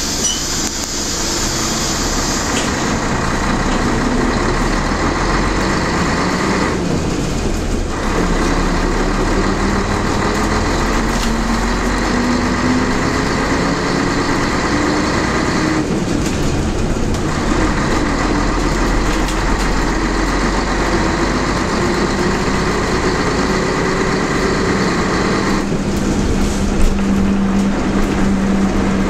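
Scania L113CLB bus's six-cylinder diesel engine pulling under load as the bus accelerates, its pitch climbing slowly. The engine note drops out briefly three times, about every nine seconds, as the manual gearbox is shifted up.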